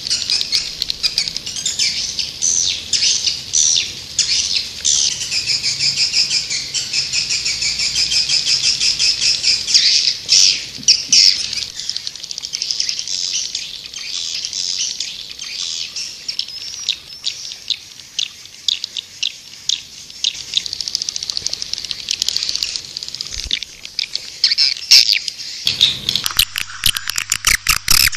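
Swiftlet lure call: a dense chorus of rapid, high twittering chirps and trills from many birds. A faint low hum comes in near the end.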